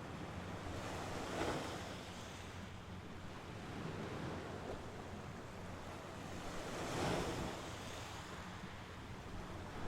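Mediterranean Sea waves breaking on the shore, two waves swelling and washing in, about 1.5 and 7 seconds in, over a steady wash of surf.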